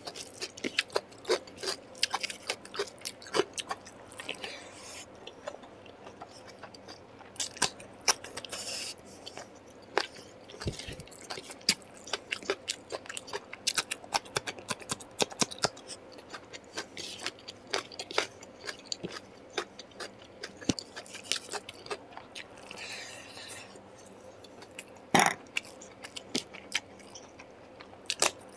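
Close-miked eating: wet chewing, lip-smacking and biting, with irregular clicks and smacks throughout and a sharper, louder crack about 25 seconds in.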